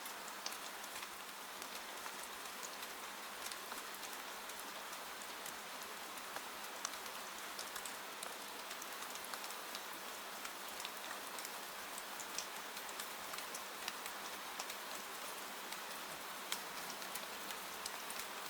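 Steady rain falling, with scattered sharp crackles from a wood fire burning in a fireplace.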